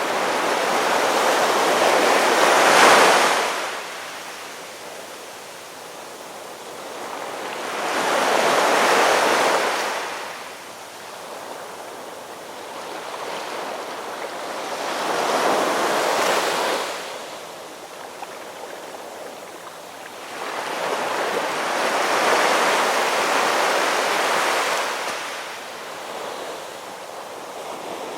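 Ocean waves washing in and receding, swelling and fading in turn about every six to seven seconds, four waves in all.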